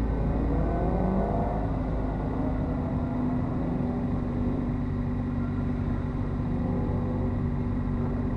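Car engines at an autocross course: one accelerates with a rising pitch in the first second or two and again more faintly later, over a steady low engine hum.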